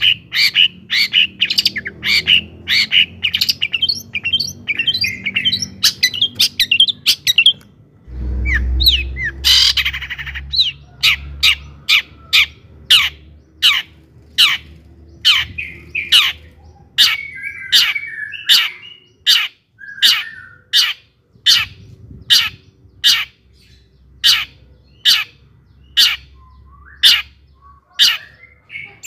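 Long-tailed shrike singing: a fast chattering run of notes for about seven seconds, then a long series of sharp downward-slurred notes about one and a half a second, with a few harsh raspy notes in between. A low rumble comes in about eight seconds in and lasts a few seconds.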